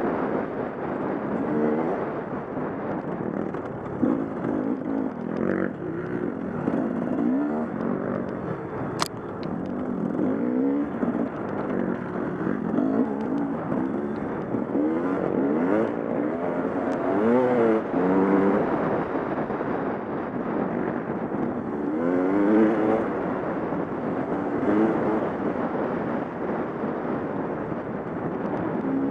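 Dirt bike engine being ridden on a rough trail, the revs rising and falling again and again as the throttle is worked and gears change.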